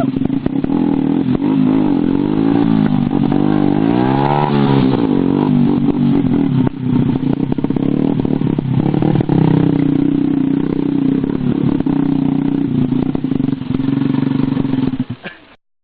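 Motorcycle engines running, with revving that rises and falls in pitch several times between about two and five seconds in. The sound cuts off suddenly just before the end.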